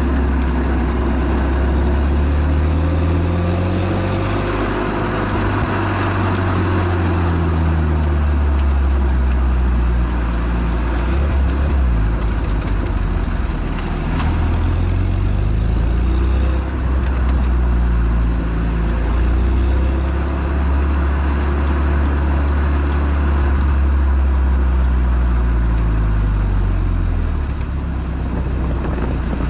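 Renault Megane Estate GT220's exhaust under hard acceleration: the engine note climbs in pitch and drops back at each gear change, several times over. Near the end it eases off.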